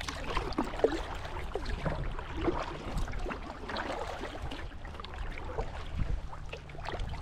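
Paddle strokes in lake water: irregular splashing and dripping from the paddle blade, with wind rumbling on the microphone.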